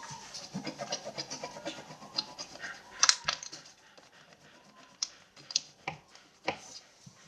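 Wax crayon scratching on paper in quick repeated strokes, thinning out after about four seconds into a few separate sharp taps.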